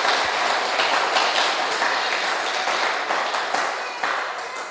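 Congregation applauding, many hands clapping together and dying down toward the end.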